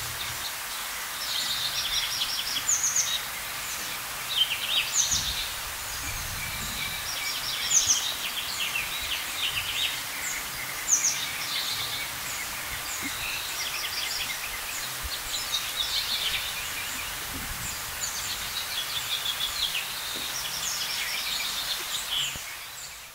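Small birds chirping and twittering in short quick runs every couple of seconds, over a steady background hiss of outdoor noise.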